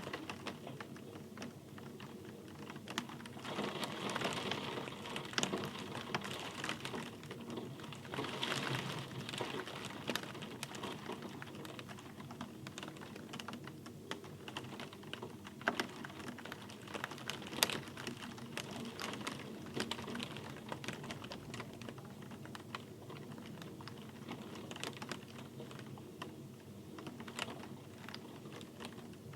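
Rain: many irregular drops ticking on a hard surface over a soft hiss, a little heavier for a few seconds about 4 and 9 seconds in.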